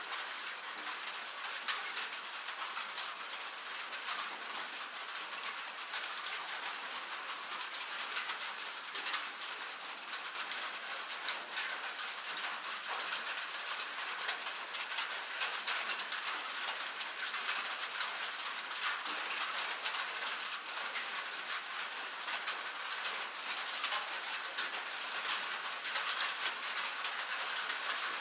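Steady rain on a metal roof: a dense, even patter of small drops ticking on sheet metal, with no heavy thuds.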